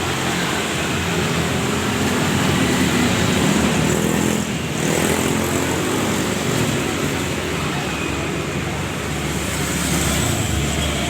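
Steady road traffic noise: engines of passing vehicles.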